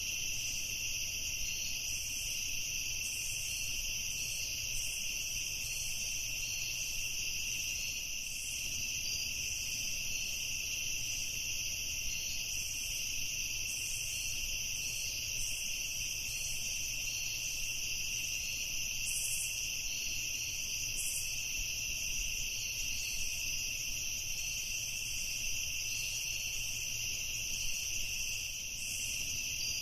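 Steady evening chorus of insects, a continuous high-pitched trilling with no breaks.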